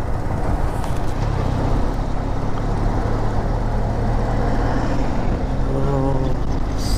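Motorcycle engine running steadily at cruising speed under heavy wind and road rush on the rider's microphone, with a brief high hiss near the end.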